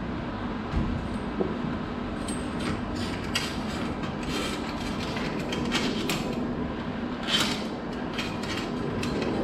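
Steel garage door lift cable being wound around the door's cable drum: a scattered series of short scrapes, clicks and rattles of wire on metal.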